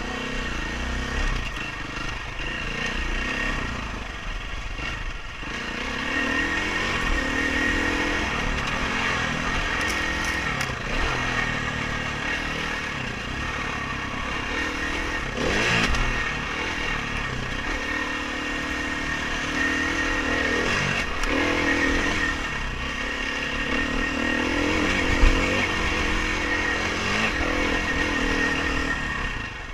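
Dirt bike engine revving up and falling back again and again as it is ridden, with a sharp knock near the end.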